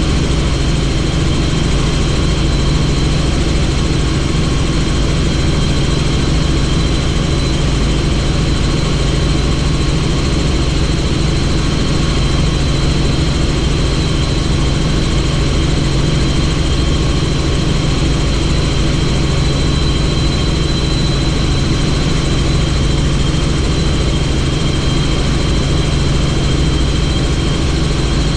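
Helicopter in flight, heard from inside the cabin with the doors off: a loud, steady drone of rotor and engine with a thin high whine on top, unchanging throughout.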